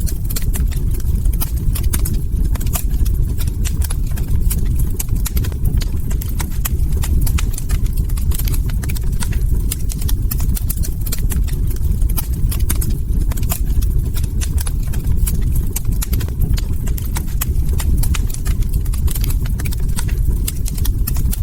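Wood fire crackling: many irregular sharp pops and snaps from burning logs over a steady low rumble.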